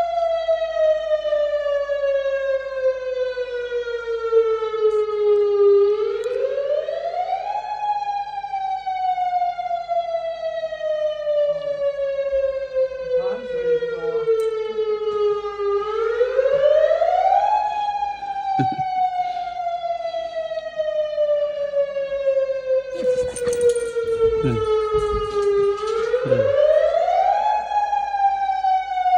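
Tsunami warning siren sounding a drill: a wailing tone that climbs quickly in about two seconds, then falls slowly over about eight seconds, three times over. A brief rush of noise comes about three-quarters of the way through.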